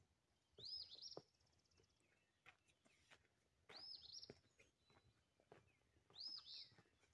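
A songbird singing a short, high chirping phrase, faint, three times about two and a half seconds apart, with faint footsteps on pavement in between.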